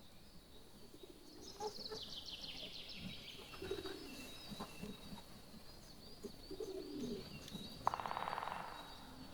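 Birdsong: a dove cooing about every three seconds, with a higher songbird trill falling in pitch early on and a short buzz near the end.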